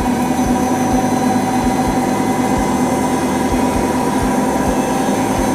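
Samsung Ecobubble WW90 washing machine spinning in its test-mode spin cycle: a steady motor whine with regular low thumps about twice a second.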